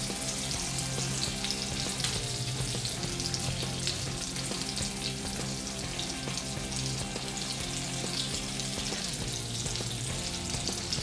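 Marinated chicken tikka skewers sizzling steadily in oil and butter in a kadai as they are turned over with a wooden spatula.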